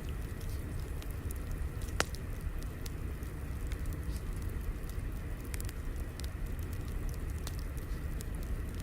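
Fire crackling over a steady low rumble, with scattered small pops and one sharper pop about two seconds in.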